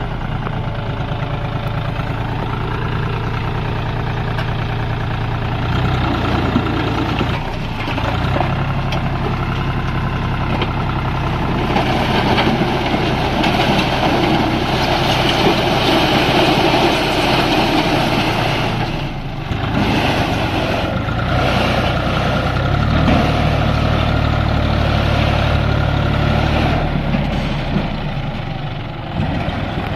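Heavy diesel engine running continuously, its pitch and load changing several times and growing louder and rougher for several seconds midway.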